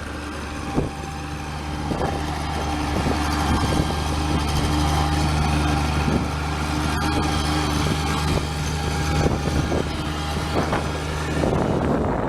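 A compact equipment machine's engine running steadily at a constant speed, then cutting off shortly before the end.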